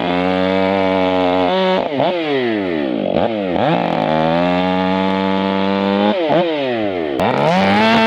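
Two-stroke chainsaw running near full throttle, its revs dropping and climbing back several times.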